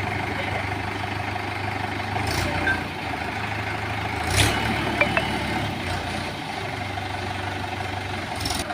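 Heavy diesel engine of the backhoe loader or tractor running steadily, with a few sharp knocks and clanks, the loudest around the middle.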